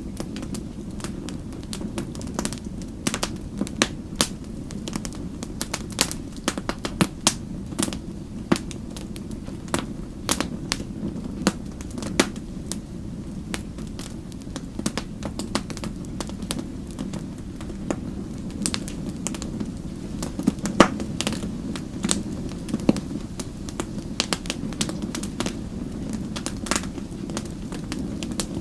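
Wood fire crackling: frequent irregular pops and snaps of varying loudness over a steady low rush from the burning fire, with one louder snap about three-quarters of the way through.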